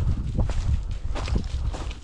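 Footsteps of a person walking through woodland brush and leaves, irregular steps a few times a second, over a low rumble on the microphone.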